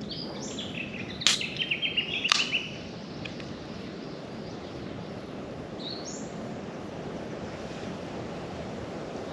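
Birds calling in the bush: short high calls, a quick run of repeated notes with two sharp clicks about a second apart near the start, and another brief call about six seconds in, over a steady background hiss.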